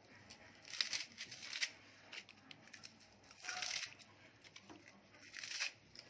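Rustling and crinkling of a sack of chopped greens being handled, in three bouts: about a second in, around the middle, and again near the end.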